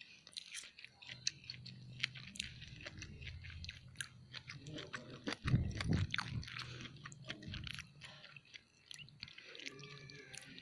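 A person chewing a mouthful of spicy stuffed fried tofu (tahu isi) close to the microphone: many small, irregular wet clicks and smacks, with a low hum under much of it that fades about eight seconds in.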